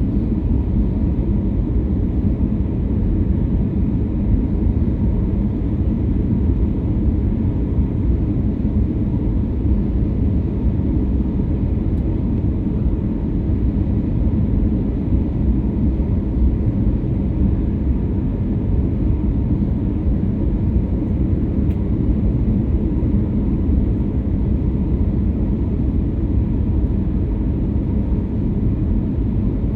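Airliner cabin noise: a steady low rumble of the jet engines and airflow, with a faint steady hum above it.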